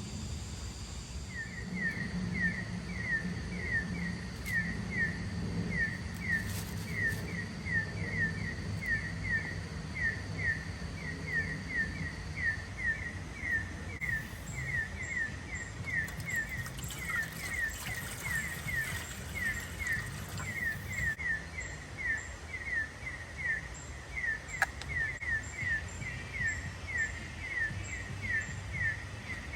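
Outdoor nature ambience with a small animal chirping over and over, about three short chirps a second, starting about a second in and keeping up steadily; faint high insect-like tones sit under it at first.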